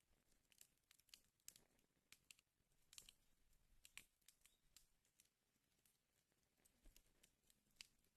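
Wood fire in a fireplace crackling faintly: irregular sharp pops and snaps, several a second, with a few louder ones, over a soft hiss.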